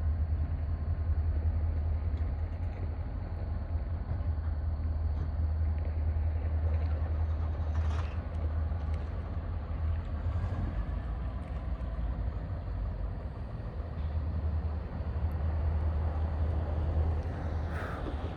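Steady low diesel engine rumble, with a brief sharper sound about eight seconds in and another near the end.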